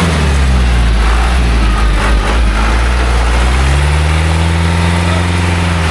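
Loaded logging truck's engine running under load. Its revs drop at the start, then rise again about three and a half seconds in and hold.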